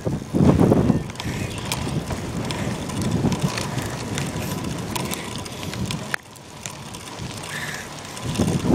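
Bicycle riding with the camera mounted on the bike: rolling rumble and small rattles and clicks, with wind buffeting the microphone. There is a loud gust in the first second, and the noise drops off suddenly about six seconds in.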